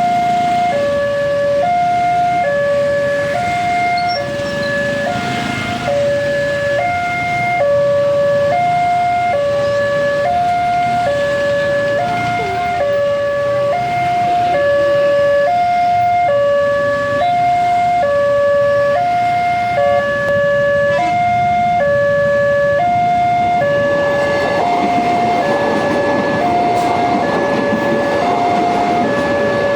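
Electronic two-tone warning alarm of a railway level crossing, alternating evenly between a lower and a higher note. About 24 seconds in, the rush of an approaching train swells underneath it.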